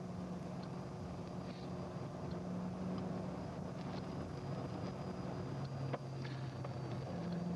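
Patrol car driving at highway speed, heard from inside the cabin: a steady engine and road drone whose pitch drops a little past halfway and climbs back just before the end. There is a single brief click about six seconds in.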